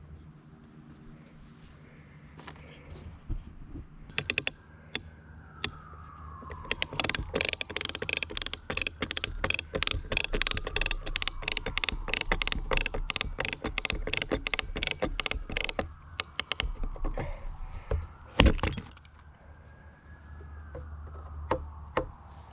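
A 2,500-pound ratchet tie-down strap being cranked tight: a few separate ratchet clicks, then a long quick run of clicks, about three or four a second, for roughly nine seconds, with one more click near the end.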